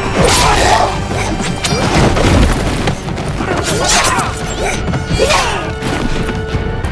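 Film action-scene soundtrack: music under repeated crashes, smashes and heavy impacts, as in a fight scene.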